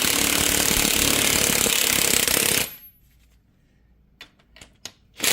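Electric impact gun hammering as it drives a bearing press to push universal joint cups out of the axle yoke. It runs for about two and a half seconds and stops, a few light clicks follow, then a short burst starts again near the end.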